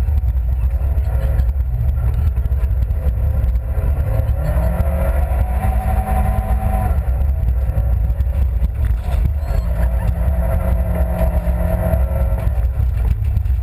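Honda Civic Type-R Group N rally car's engine heard from inside the cabin, driven hard: its pitch climbs and holds twice, then falls off, over a heavy low rumble of road and cabin noise.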